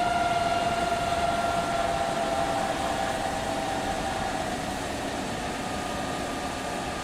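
Eurocopter EC135 P2+ turbine whine spooling down after engine shutdown, sliding slowly lower in pitch and fading out over the first few seconds, over a steady rushing noise.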